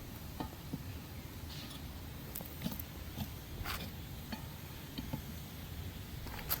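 Main water shut-off valve being turned off by hand: a few faint, scattered clicks and knocks over a low, steady hum.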